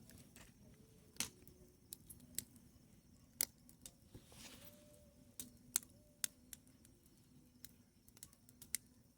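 Wood campfire crackling: faint background with irregular sharp pops and snaps from the burning firewood, spaced a second or so apart.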